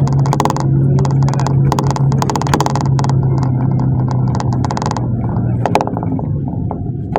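Cabin noise of a moving GAZelle minibus: a steady low engine and road drone, with a busy run of sharp clicks and rattles that thins out about five seconds in.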